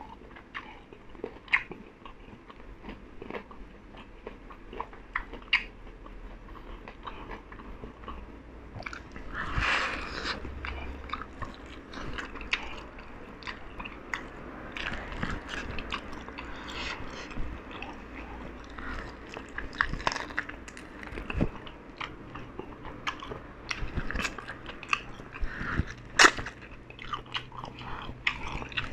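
A person biting and chewing a sauce-coated fried chicken drumstick, with small crunches and clicks coming at irregular moments. The chewing grows busier about ten seconds in.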